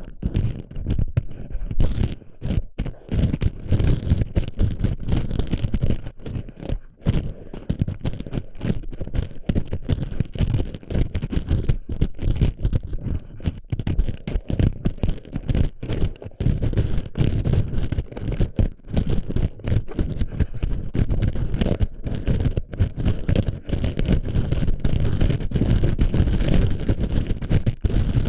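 Plastic BB pellets rattling and scraping against a microphone's ear: a dense, continuous stream of small clicks over a low rumble.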